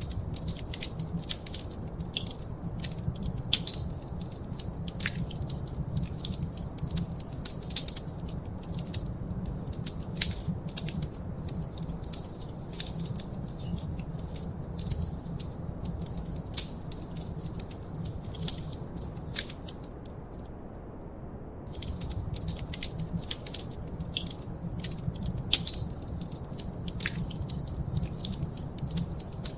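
Wood fire in a fireplace crackling, with frequent sharp pops and snaps over a low steady rumble. The crackling stops for about a second roughly two-thirds of the way through, then resumes.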